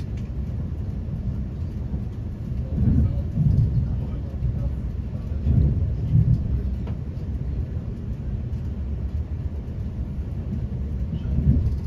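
Low rumbling running noise inside a Class 350 Desiro electric multiple unit travelling along the line, with heavier thuds coming in pairs about three seconds in, about six seconds in and near the end.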